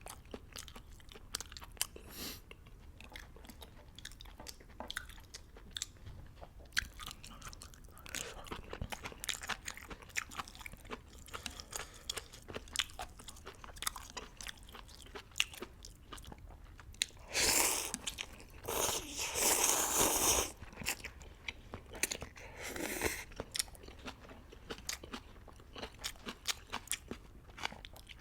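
Close-miked eating: wet chewing and mouth clicks on noodles and beef. About two-thirds of the way in come two loud slurps a little over a second each, then a shorter one.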